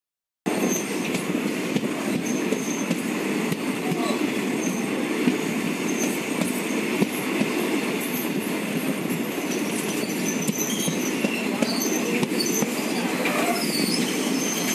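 Steady running noise of a passenger train coach on the rails, heard from on board the moving Kongu Express, with brief faint high-pitched wheel squeals now and then. It starts abruptly about half a second in.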